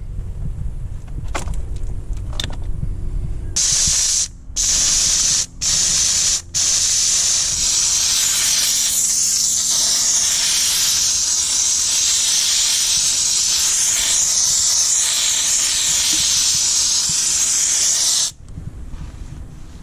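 Dupray Neat canister steam cleaner jetting steam through its nozzle onto an engine: a loud steady hiss that starts a few seconds in, stops and restarts three times in quick succession as the trigger is released, then runs on until it cuts off suddenly near the end. Before it, a low rumble with a few clicks.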